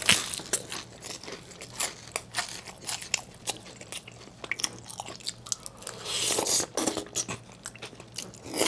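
Close-miked crunching and chewing of a batter-fried sweet potato (goguma twigim) topped with a tteokbokki rice cake: an irregular run of crisp crackles.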